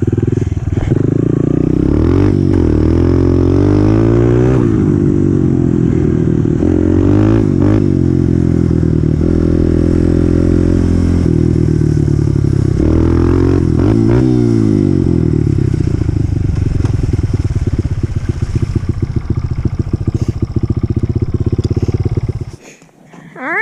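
Honda CRF125F dirt bike's single-cylinder four-stroke engine running and revving up and down several times, with steadier stretches between. The engine sound stops abruptly near the end.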